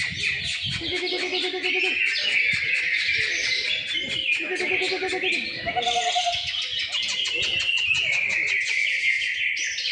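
Dense chorus of many caged songbirds singing at once, mostly cucak ijo (greater green leafbirds): fast high chirps, trills and warbles with rapid ticking notes. A lower pulsing call like a dove's coo comes in twice, about a second in and again around five seconds.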